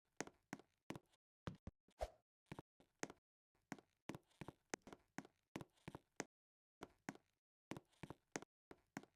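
Faint, irregular tapping and knocking, about two or three short taps a second, with dead silence between them.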